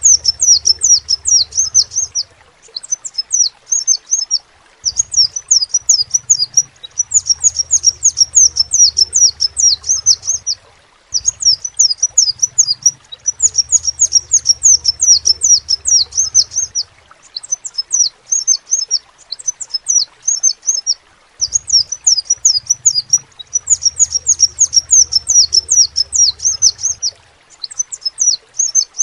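Crimson sunbird (kolibri sepah raja) singing: rapid runs of sharp, high, downward-sweeping chirps in phrases of one to four seconds, with short pauses between.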